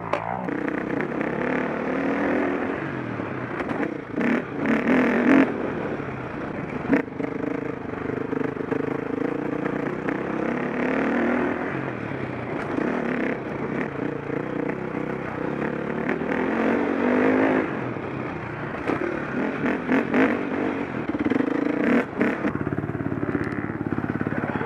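KTM 525 SX motocross bike's four-stroke single-cylinder engine being ridden hard, revving up and falling back again and again, with several sharp knocks and clatter along the way.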